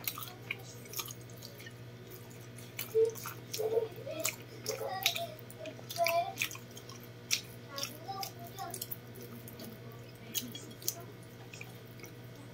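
Wet eating sounds: lip smacks and chewing clicks as rice and chicken are eaten by hand, coming in quick irregular bursts, loudest a few seconds in. A steady low hum runs underneath.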